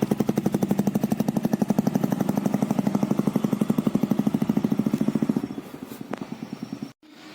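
Royal Enfield Classic 350's single-cylinder engine idling through a Globe Wild Boar aftermarket silencer, a steady even thump of about ten beats a second. It fades after about five and a half seconds and cuts off sharply a little later.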